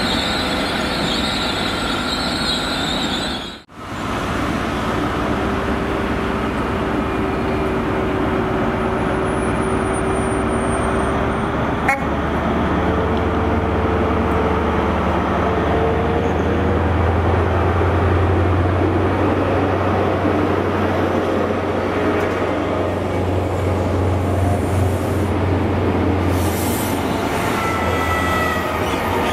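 Class 800 train running past, cut off abruptly about four seconds in. Then a Class 43 HST arrives, its power car's diesel engine running with a deep drone that grows louder as it nears, and a few thin squeals near the end as the coaches go by.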